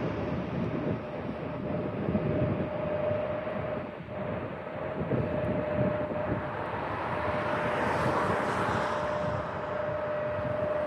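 Airbus A350-900 airliner's Rolls-Royce Trent XWB jet engines running during landing: a steady rushing noise with a single steady whine, swelling louder about eight seconds in.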